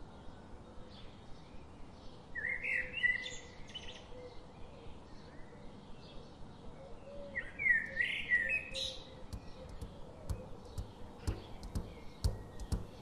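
Songbird singing outdoors: two phrases of quick chirps, about two seconds in and again about seven and a half seconds in, over a steady faint outdoor hush.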